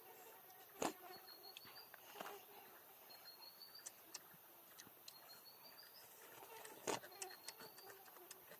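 Faint outdoor ambience: a small creature's short, high rising chirp repeating about every second and a half, with scattered faint ticks. Two sharp knocks, about a second in and near the end, are the loudest sounds.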